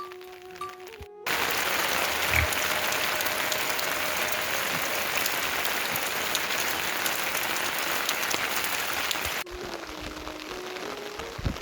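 Heavy rain pouring down, an even hiss that starts suddenly about a second in and stops suddenly near the end.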